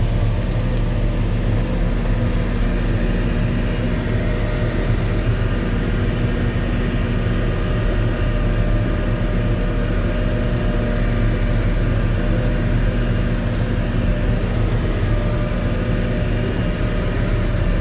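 Volvo L70H wheel loader's diesel engine and front-mounted snow blower running steadily, heard from inside the cab, with an even low hum that does not change.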